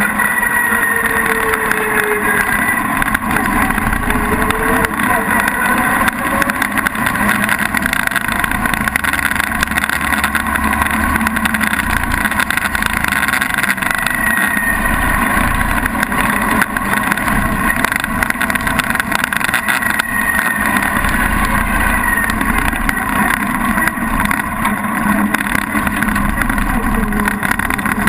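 A vintage car engine running steadily, with slight rises and falls in pitch.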